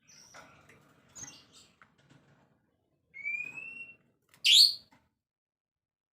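Songbird calls: a few short chirps, then a clear rising whistle about three seconds in, followed by a loud, sharp falling note at about four and a half seconds.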